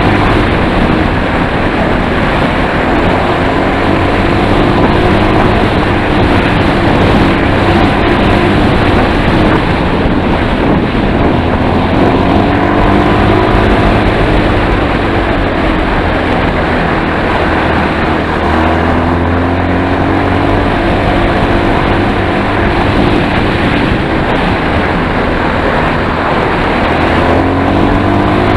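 Enduro motorcycle engine running under way, its pitch rising and falling over and over as the throttle is opened and closed, with wind noise on the microphone.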